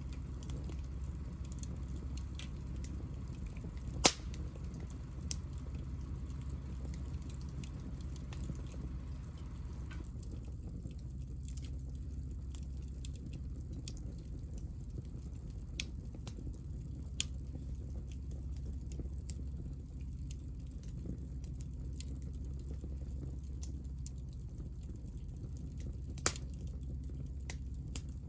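Hinoki (Japanese cypress) offcuts burning in a wood fire: sparse sharp pops and crackles over a low steady rumble. The loudest pops come about four seconds in and near the end.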